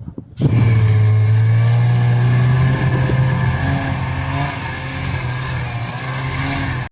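A vehicle engine running loudly at a steady, low pitch. It starts about half a second in and cuts off abruptly at the end.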